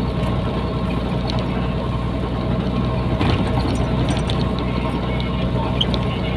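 Nissan Diesel container truck's diesel engine running steadily, heard from inside the cab with road noise.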